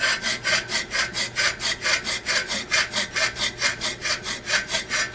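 Hand file stroking back and forth across the edge of a steel horseshoe toe clip, filing a small back bevel; quick, even strokes, about five or six a second, which stop abruptly near the end.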